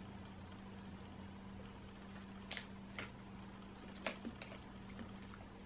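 Faint crunching clicks, a handful spread through the second half, from a person chewing a hard milk-drop dog treat, over a steady low hum.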